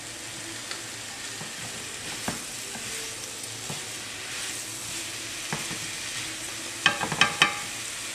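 Gnocchi, sausage, mushrooms and tomato sizzling steadily in a skillet while a rubber spatula stirs them, with a few light taps. A quick cluster of sharp knocks near the end.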